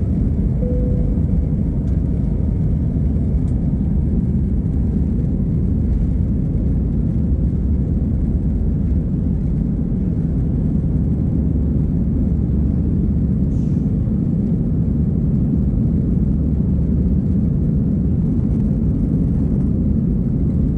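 An Airbus A320's jet engines after take-off: a steady, loud, low rumble that holds even throughout, with no rising whine. A short faint tone is heard about a second in.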